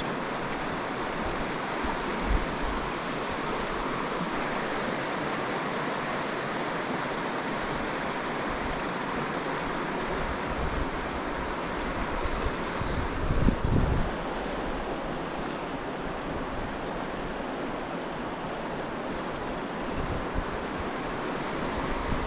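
Mountain stream rushing steadily over riffles. About two-thirds of the way through, a brief low rumble of wind buffeting the microphone is the loudest moment.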